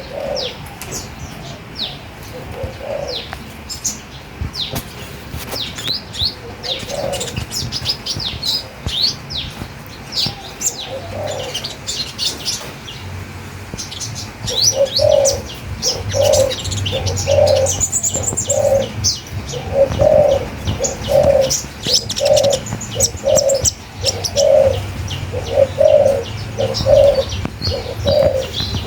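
A chorus of birds chirping and twittering in quick, high notes. From about halfway, a low cooing call starts repeating at an even pace, roughly three notes every two seconds, under the chirps.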